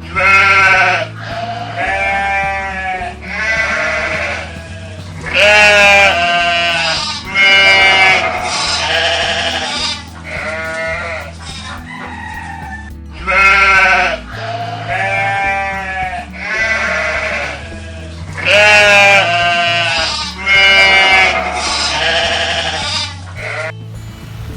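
A long run of wavering, bleat-like calls, each under a second with short gaps between, over background music with a steady low bass line.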